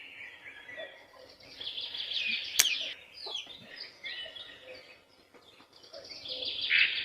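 Birds chirping faintly in short scattered calls, with one sharp click about two and a half seconds in.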